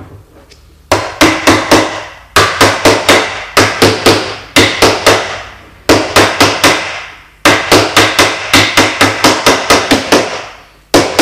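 Hammer tapping rapidly on a paintless dent repair tool, driving a car-body dent out from behind through the stiff sound-deadening. The taps come in runs of about five a second, broken by short pauses.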